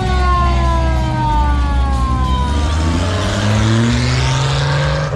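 A siren tone falls slowly in pitch as it winds down, over the low rumble of a car engine. From about three seconds in, an engine revs up with a rising pitch.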